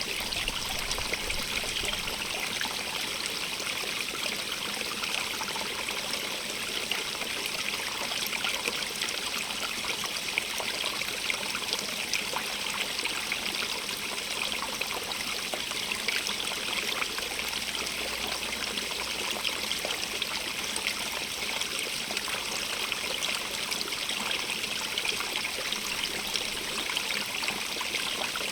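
Small stream running and trickling over stones: a steady, even rush of water with fine bright splashing.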